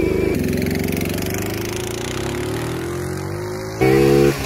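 Honda C70 Super Cub's small single-cylinder four-stroke engine pulling at full throttle from a standing launch. Its pitch drops about a third of a second in as it shifts up, then climbs slowly as the bike gathers speed, with a brief louder burst near the end before the pitch falls again.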